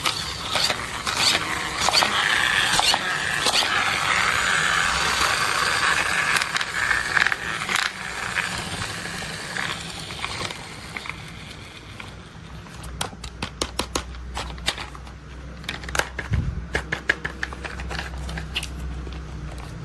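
Plastic toy construction vehicles and their packaging being handled. A rustling scrape with scattered clicks runs through the first half, then a run of quick, sharp plastic clicks follows, with a low steady hum underneath in the second half.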